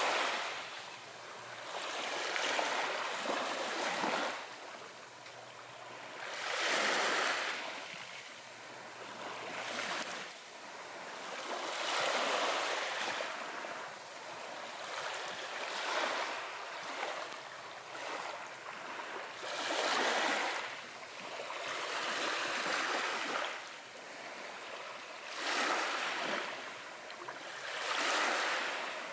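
Ocean waves washing in, the surf swelling and fading about every three seconds.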